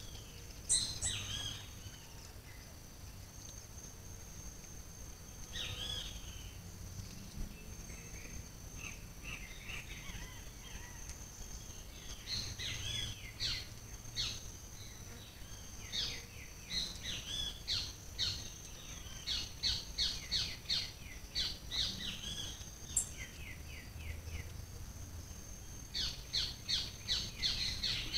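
Birds calling: short, falling high chirps, scattered at first and then in quick runs of several a second through the second half, over a steady high whine.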